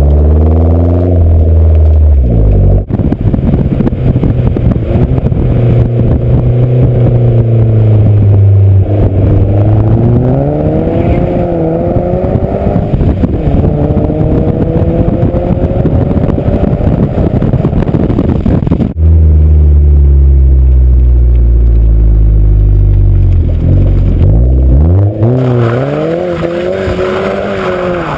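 Hyundai Genesis Coupe 2.0T turbocharged four-cylinder through an Exceladyne cat-back exhaust, accelerating and easing off so the exhaust note climbs and falls again and again, with rough wind and road noise over it. The sound cuts abruptly from one clip to the next twice, about 3 and 19 seconds in.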